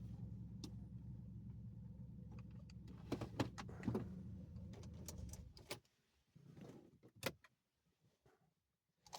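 Car engine idling with a steady low hum and a few clicks, then switched off about six seconds in; a few faint clicks and one sharper click follow.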